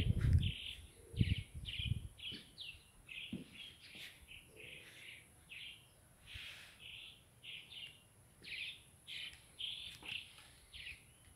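A small bird chirping over and over, short high chirps about twice a second. A few low thumps come in the first two seconds.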